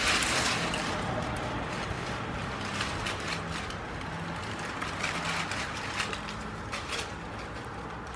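Creeper vines and leaves rustling and tearing as a big dog pulls at them, loudest in the first second, with scattered sharp cracks of stems snapping.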